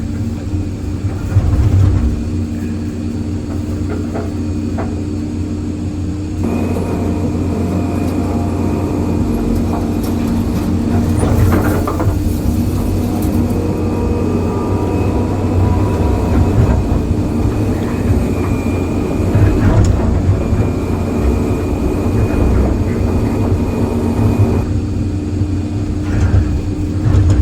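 Diesel excavator engine running steadily under load, with a few knocks and scrapes from concrete debris. The clearest of these comes about eleven seconds in.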